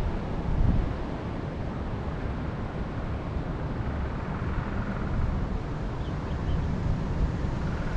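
Wind buffeting the microphone with gusty low rumble, and a few faint bird chirps about six seconds in.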